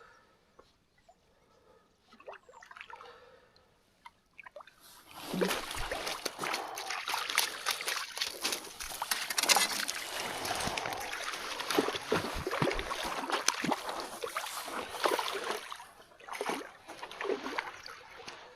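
Water splashing and sloshing: quiet at first, then loud, busy splashing starts suddenly about five seconds in and eases off near the end into scattered splashes.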